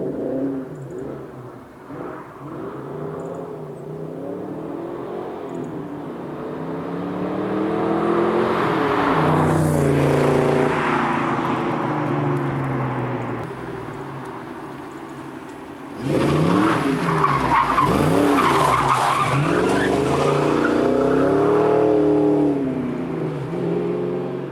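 Fox-body Mustang's stock 5.0 V8, with shorty headers and a catless H-pipe, revving up and down again and again under hard driving, with tyres squealing. About two-thirds of the way in it turns suddenly louder and stays loud until near the end.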